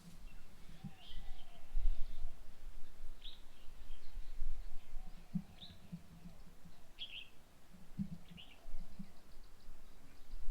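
Birds chirping: short high calls every second or two, over a low rumble with a few soft thumps.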